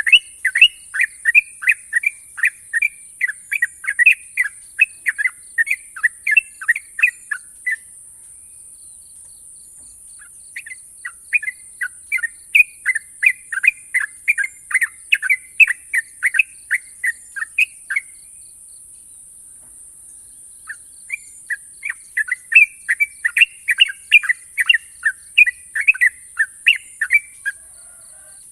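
Yellow-vented bulbul (trucukan) singing its 'ropel': long runs of quick, sharp chirping notes, several a second, in three bouts of about seven seconds each with short pauses between. A steady high-pitched hiss runs underneath.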